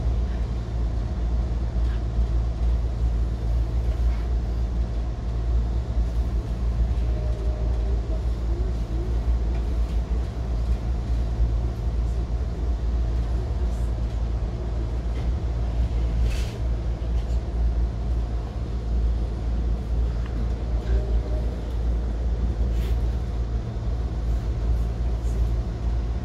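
Interior of a moving passenger train: a steady low rumble of the car running along the rails, with a couple of faint ticks about two-thirds of the way through.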